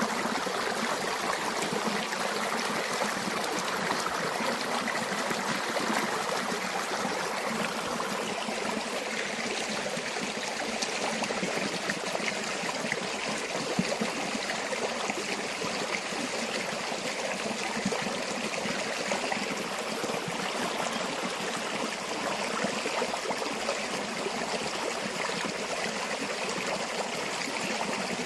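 A river or stream flowing steadily, an even rush of running water with a trickling, babbling texture.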